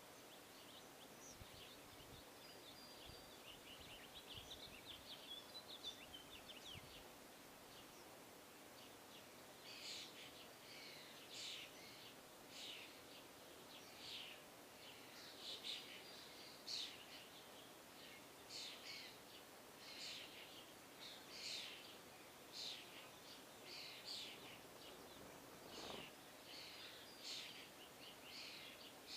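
Small birds chirping faintly: a quick twittering for the first several seconds, then a long run of short, sharp high calls at about one a second.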